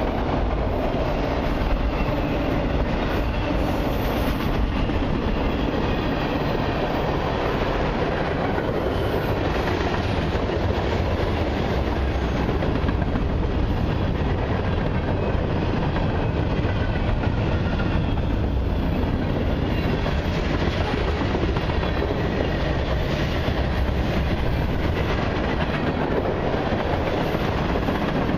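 Freight cars of a long mixed train, autoracks, open hoppers and tank cars, rolling past: steady, unbroken noise of steel wheels running on the rails.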